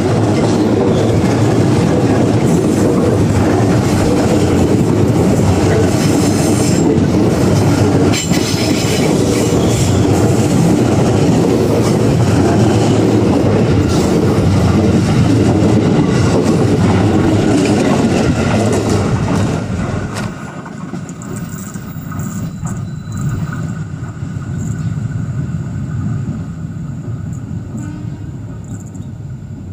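KRL electric commuter train passing close at low speed on a sharp curve, its wheels rumbling and clacking over the rails. About two-thirds of the way through the sound drops to a quieter, more distant train running round the curve.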